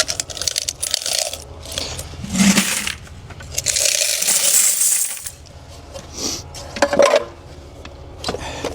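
Coins clinking and jingling as a car wash coin box is emptied into a bucket, with a denser rush of pouring coins about four seconds in that lasts over a second.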